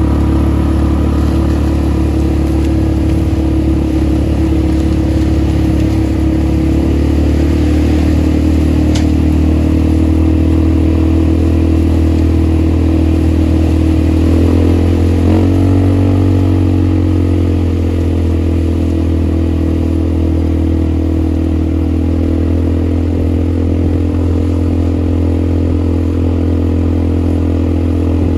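ATV engine running steadily while riding, its pitch shifting and gliding briefly about halfway through.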